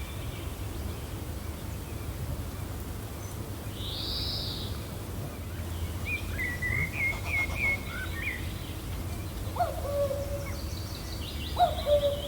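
Songbirds chirping and trilling over a steady low wind rumble, with two short low hooting calls in the second half.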